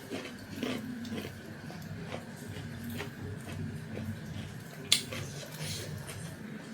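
Close-miked eating sounds: soft chewing and mouth noises with scattered small clicks, and one sharp click about five seconds in.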